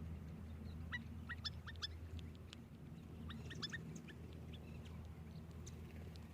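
A bird calling in two quick series of short, rising chirps, one about a second in and another about three and a half seconds in, over a steady low hum.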